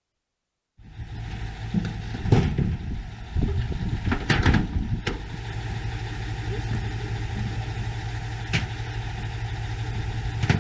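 A vehicle engine idling steadily, starting almost a second in, with several sharp knocks and clatters over it.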